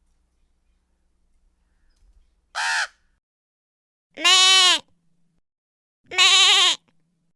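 A brief, higher call about two and a half seconds in, then a sheep bleating twice, each bleat about half a second long with a wavering pitch.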